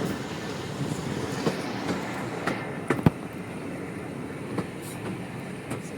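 Diesel-hauled passenger train heard from on board, rolling slowly with a steady low rumble and scattered wheel clicks over the rail joints, the sharpest knock about three seconds in.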